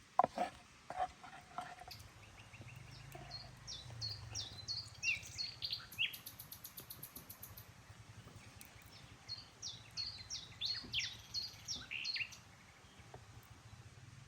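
A songbird singing two phrases of quick, high, repeated chirps, one after another. A few sharp clicks or knocks come in the first two seconds, and a low steady hum runs underneath.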